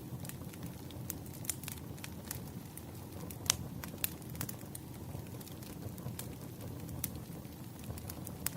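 Bonfire crackling: scattered sharp pops and snaps over a low steady rumble of the flames, the loudest pop about three and a half seconds in.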